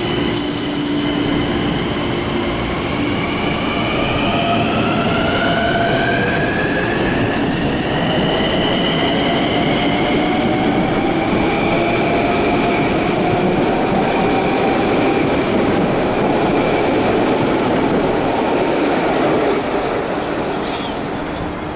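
Long Island Rail Road electric train accelerating along the platform, its motor whine rising in pitch over the first several seconds and then holding steady, with rumbling wheels on the rails. Two short hisses come near the start and about seven seconds in, and the sound fades near the end as the train pulls away.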